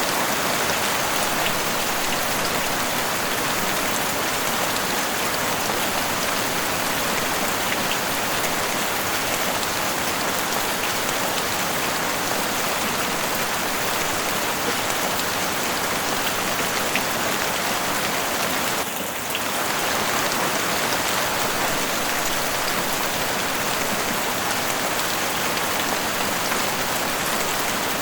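Heavy rain falling steadily on a house roof, a dense even hiss with scattered single drops ticking through it. The sound dips briefly for a moment about nineteen seconds in.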